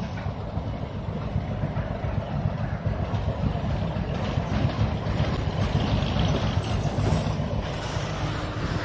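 Passenger train coaches rolling past on the track, a steady low rumble of wheels on rails. A faint steady tone comes in near the end.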